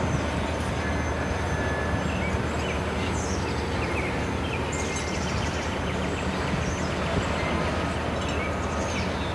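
Loaded side-dump ballast gondolas rolling slowly past on the rails, a steady rumble with a constant low hum underneath. A few bird chirps sound over it.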